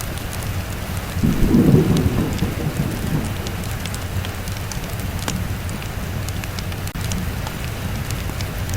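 Steady rain with a low roll of thunder swelling about a second in and dying away over the next couple of seconds. Scattered sharp crackles of a wood fire sound through the rain.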